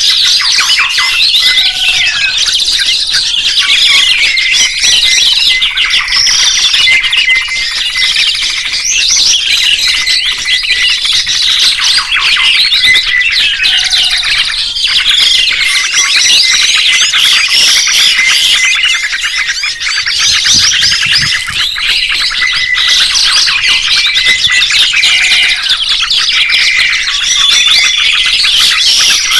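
Songbirds chirping and twittering in a dense, fast, unbroken stream of high trills and calls.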